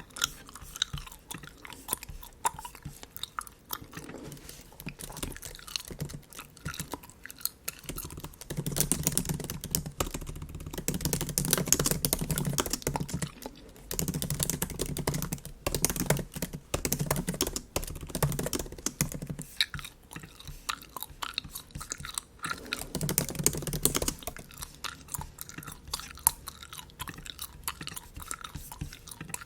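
Bubble gum chewed close to the microphone: a steady run of many small, quick clicks. It gets louder and fuller from about 9 to 19 seconds in, and again briefly around 23 seconds.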